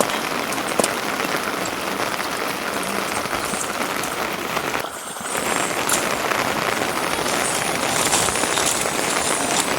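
Steady rain falling, a dense hiss with scattered sharp drop ticks; it dips briefly about five seconds in.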